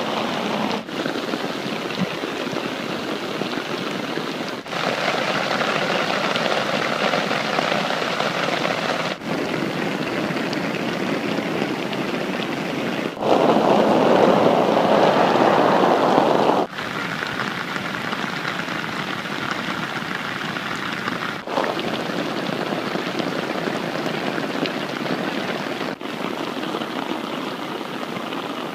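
Rain falling, a steady hiss that drops out briefly every few seconds as it changes; one stretch about halfway through is louder and fuller.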